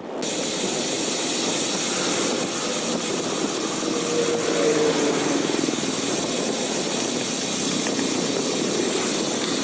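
Steady rush of wind over a camera microphone while riding a road bike at speed. A faint passing engine hum shows about four to five seconds in.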